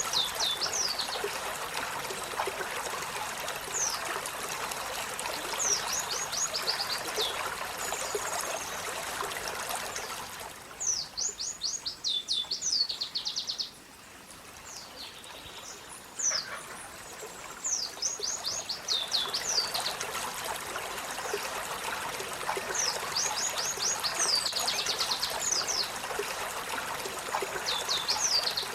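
Olive-backed sunbird singing: quick runs of high, sharp downward-sweeping notes, repeated every few seconds, over the steady rush of running water. The water sound cuts out for a few seconds near the middle, leaving the song on its own.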